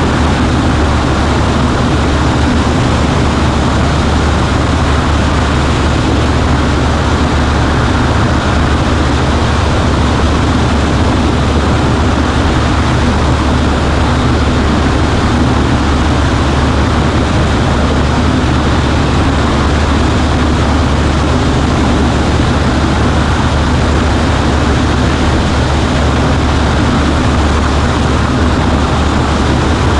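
Cessna 140A's piston engine and propeller running at a steady, loud drone with no change in power.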